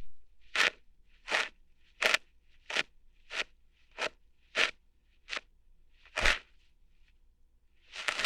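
ASMR ear-hair plucking sounds close to the microphone: a string of short crackly pops and snaps, about one and a half a second, with a pause of over a second near the end before one more.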